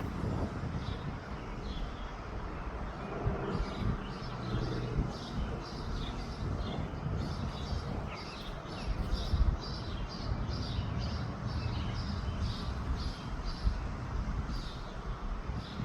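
A small bird chirping repeatedly, short high notes about two or three a second, over wind rumbling on the microphone.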